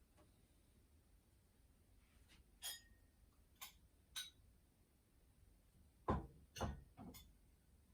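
A handful of sharp clicks and light knocks of small hard parts or a tool being handled on a work bench. Three lighter clicks come a third of the way in, and three louder knocks follow near the end.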